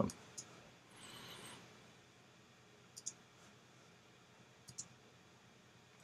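Faint computer mouse clicks over quiet room tone: two quick pairs of clicks about a second and a half apart in the second half, with a soft brief hiss about a second in.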